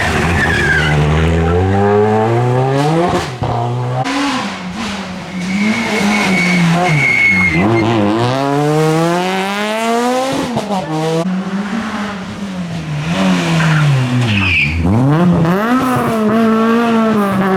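Rally car engine revving hard, its pitch climbing and dropping again and again through gear changes and lifts off the throttle, with a brief tyre squeal about six seconds in.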